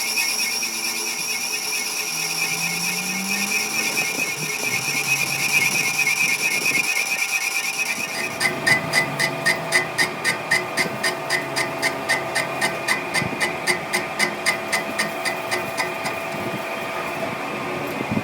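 Steady metallic whine with several ringing tones, then from about halfway in, a hammer striking metal about twice a second for some eight seconds, each blow ringing. This is part of repairing an excavator wheel hub.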